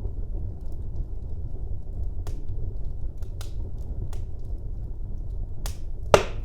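Wood fire burning in a fireplace: a steady low rumble of flames with scattered crackles and snaps, and one loud pop about six seconds in.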